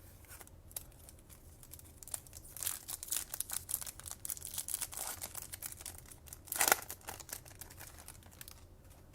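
A Topps Chrome trading-card pack wrapper being torn open and crinkled. Crackling runs from about two seconds in, with one louder rip near seven seconds.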